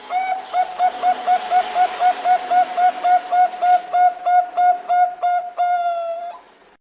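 Bangkok zebra dove (perkutut bangkok) singing: a rapid run of short cooing notes, about four a second, finished by one longer drawn-out note that drops slightly and cuts off.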